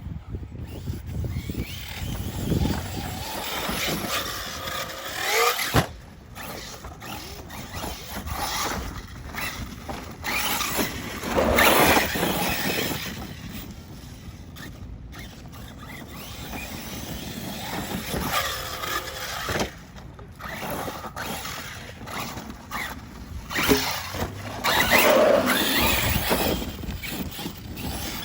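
Electric 6S RC trucks (Arrma Mojave and Outcast) being driven hard, the brushless motor whine rising and falling with each burst of throttle, along with tyre and dirt noise. The loudest passes come about 12 seconds in and near the end, with a sharp knock around six seconds in.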